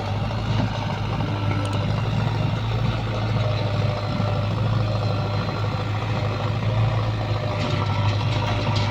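Heavy diesel engine of earth-moving machinery running steadily, a low, even drone.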